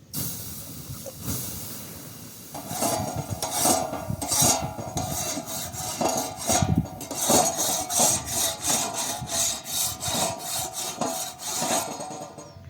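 Repeated rough rubbing or scraping strokes, coming faster, about three to four a second, in the second half, with a faint ringing note under them; they stop near the end.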